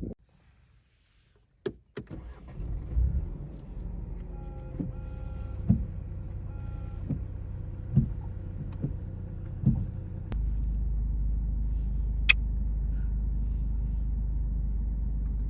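Car interior sounds: two sharp clicks, then a low rumble with a short chime repeating about once a second and a few dull thumps. About ten seconds in, a steady low engine rumble sets in and holds.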